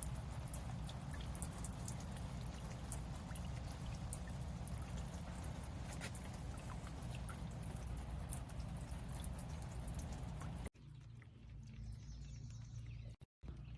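Solar-powered bird bath fountain spraying, its water splashing and pattering into the basin with many small droplet ticks. About ten seconds in the sound cuts off abruptly to a much quieter background with a low hum.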